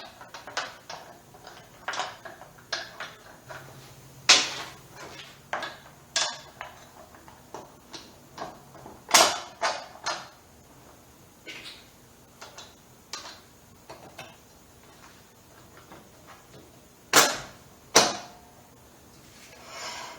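Metal parts of a minibike's rear sprocket and brake assembly clinking and knocking as spacers and a washer are worked into place by hand. Scattered light clicks with a few louder knocks, two of them close together near the end.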